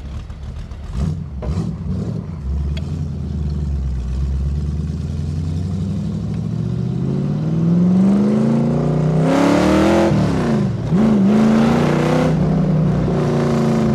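AC Cobra replica's V8 engine accelerating hard through the gears: the pitch climbs steeply for several seconds, drops sharply about two-thirds of the way in at a gear change, climbs again, then eases near the end. The engine is still cold.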